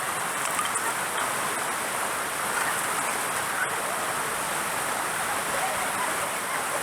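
Mountain stream running over rocks: a steady hiss of flowing water.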